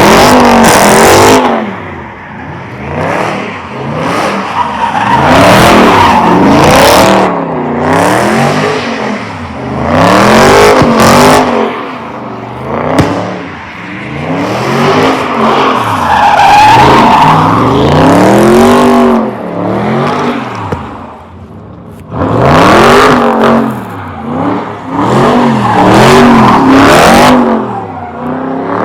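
Car engine revved hard again and again, its pitch rising and falling every second or two, with tyre squeal, as a car does donuts or a burnout at a car meet.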